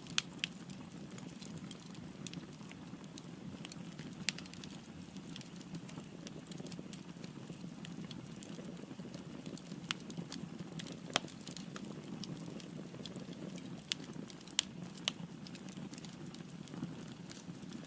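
Firewood burning in a fireplace: a steady low rumble of flame with irregular sharp crackles and a few louder pops.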